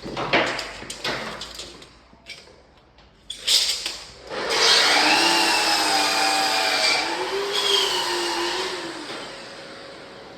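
A few knocks, then an electric power tool's motor runs for about four and a half seconds, its pitch wavering and dipping as if under load, before it winds down.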